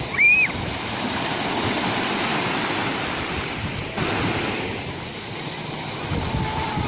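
Sea waves breaking and washing in, a steady rush of surf that swells again about four seconds in. A brief high-pitched chirp rises and falls near the start.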